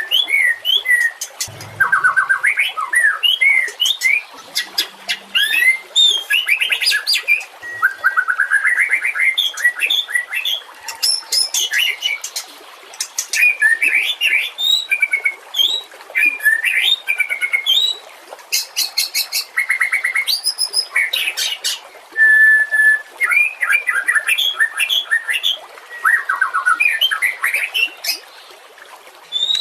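White-rumped shama (murai batu) singing a long, varied song of rapid whistles, sweeping notes and trills in quick phrases with short pauses between them.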